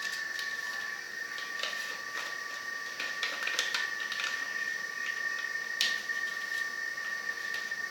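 A sheet of paper rustling and crackling in short, irregular bursts as it is folded and creased by hand, over a steady high-pitched whine.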